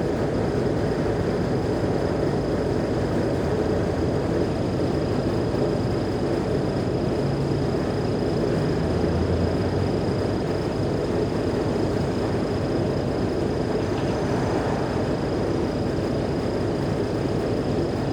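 Mercedes-Benz O345G articulated city bus running under way, its diesel engine and drivetrain giving a steady low drone with a thin, steady high whine over it.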